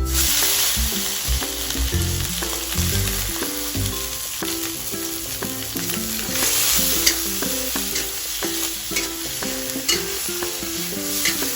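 Food sizzling as it fries in a hot pan and is stirred, with a few sharp clicks of a utensil against the pan.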